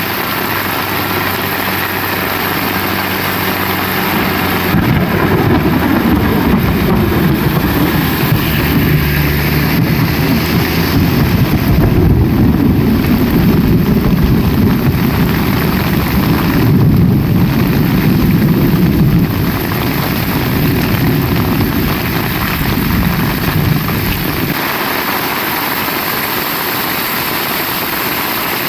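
Heavy rain falling steadily. A loud low rumble joins it about five seconds in, lasts nearly twenty seconds and then stops suddenly.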